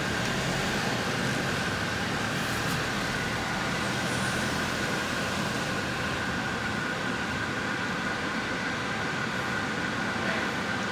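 Steady road and engine noise inside a moving car's cabin, with a faint steady high tone running through it.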